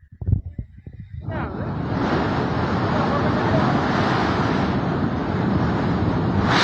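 Rushing floodwater: a dense, steady rush of water that sets in about a second in and swells to full strength. It is preceded by a few low thumps on the microphone.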